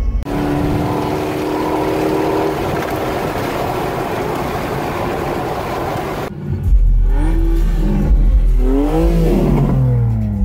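Car engines at hard acceleration. First a loud, steady rush of engine and air noise. Then, after a cut, a deep exhaust rumble with a car's engine pitch climbing and falling as it speeds past.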